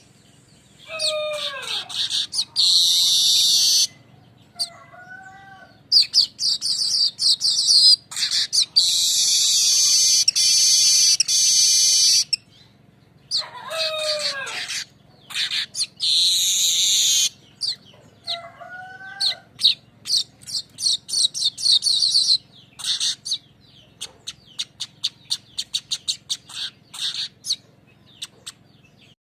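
Weaver bird (manyar) song: long, high, buzzy rattling trills lasting one to several seconds, separated by pauses. A couple of lower falling calls cut in, and the last third turns into a quick series of short chipping notes.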